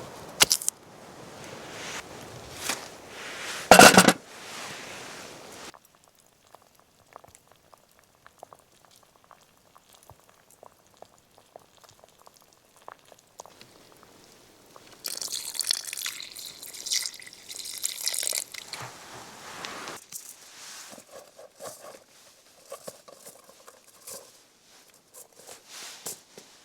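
Camp cooking sounds: clinks and handling of cookware, with one loud knock about four seconds in, then liquid being poured for a few seconds in the middle, with small ticks and clicks between.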